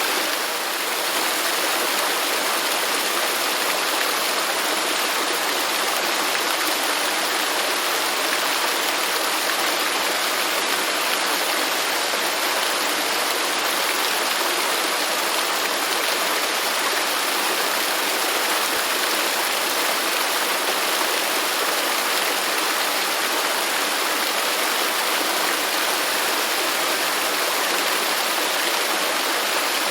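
Waterfall: a steady, even rush of falling water, mostly a bright hiss with little low rumble.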